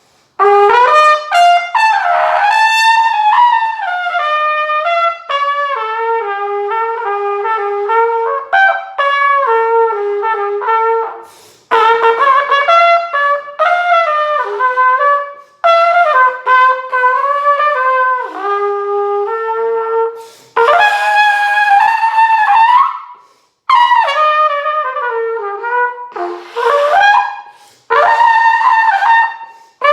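Solo trumpet playing a melody in a series of phrases, with short breaks between them.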